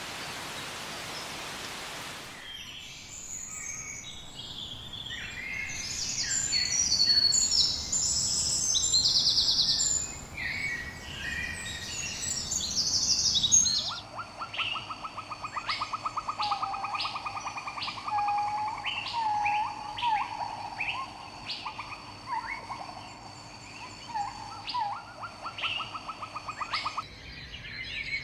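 Several rainforest birds chirping and whistling in quick, overlapping calls, after a couple of seconds of steady hiss like rain. About halfway through the scene changes abruptly: bird calls continue over steady high-pitched tones and a fast pulsing trill.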